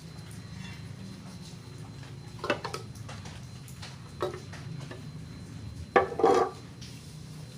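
Hard objects clinking and clattering as they are handled, three times, the loudest near the end, over a low steady hum.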